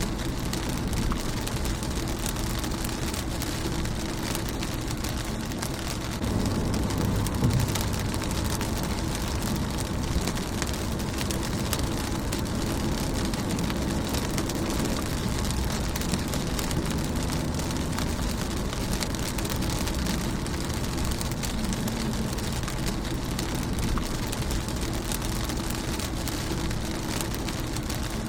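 Rain pattering on a car's windshield and body, a steady hiss dotted with individual drop ticks, over a low rumble that swells slightly about six seconds in.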